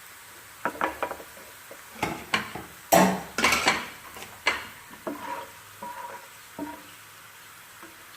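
Spoon stirring and scraping in a frying pan of crushed garlic frying in hot oil, over a faint steady sizzle. A run of knocks and scrapes, loudest about three seconds in, then fewer and lighter.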